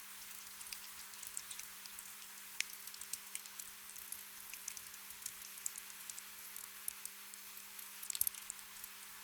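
Gentle rain: a soft steady hiss with scattered raindrops pattering, and a brief flurry of louder drops about eight seconds in.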